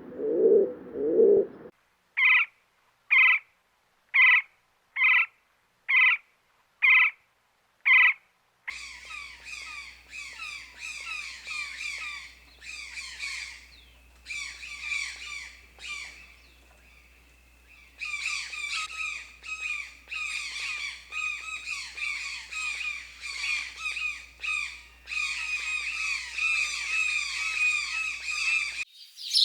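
Birds calling. Low cooing runs briefly at the start. Then come seven short, sharp calls about one a second, followed by a long stretch of rapid, busy chattering song that thins out for a few seconds in the middle.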